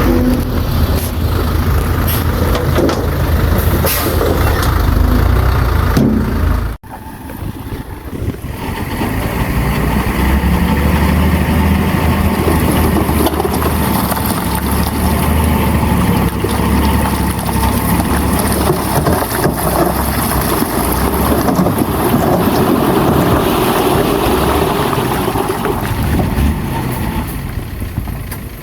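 Heavy diesel engine of earthmoving machinery running steadily under load. It drops out suddenly about seven seconds in, then comes back within a second or two and runs on.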